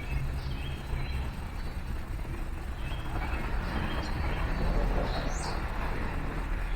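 Small birds chirping in short, scattered calls, with a sharper rising call about five seconds in, over a steady low rumble of traffic.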